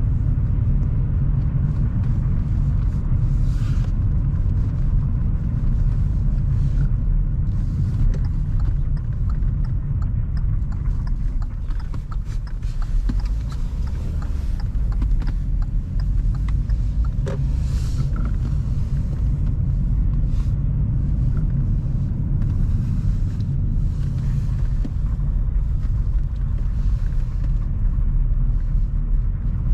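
A car being driven, with a steady low rumble of road and engine noise and brief swells of hiss now and then.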